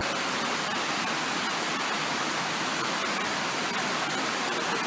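Steady, even rushing noise of fast-moving water, with no break or change.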